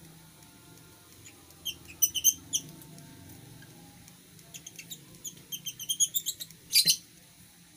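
Lovebirds giving rapid, high-pitched chirps in two bouts, one about two seconds in and another from about four and a half seconds, ending in a louder shrill burst near seven seconds.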